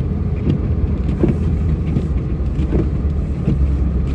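Steady low rumble of a plow truck's engine and road noise heard inside the cab, with faint regular knocks about every three-quarters of a second.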